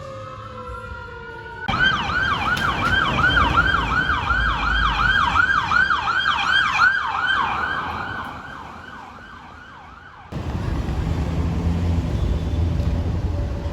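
Electronic emergency-vehicle siren: a slow rising wail, then, after a cut, a rapid yelp sweeping up and down about three times a second that fades as the vehicle passes and moves away. Near the end the siren is gone and only low engine and road rumble remains.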